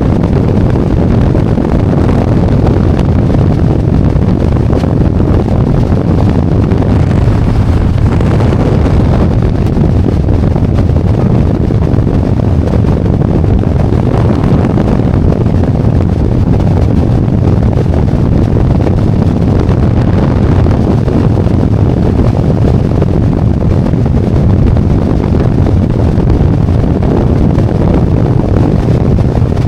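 Harley-Davidson Road Glide's V-twin engine running steadily under way, with strong wind rushing over the microphone.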